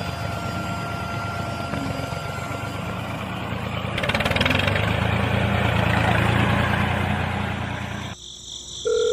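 Small motor running with a steady mechanical hum, cutting off abruptly about eight seconds in. A steady electronic beep starts just before the end.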